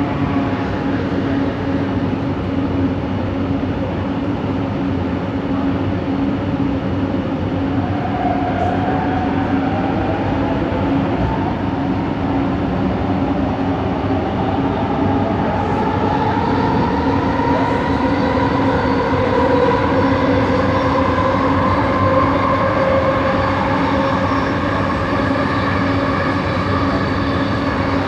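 Electric train's traction motors whining with several tones rising together in pitch as it picks up speed, then levelling off, over a steady hum. This is the odd motor noise that set 70's rider traces to coach 4.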